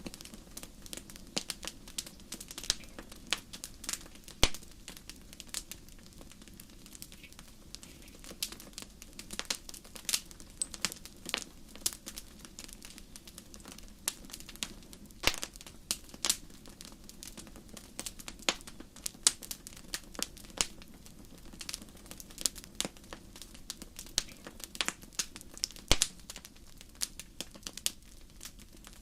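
Wood fire crackling in a fireplace: irregular sharp pops and snaps over a low steady hiss and rumble of the flames, with a few louder pops, the loudest near the end.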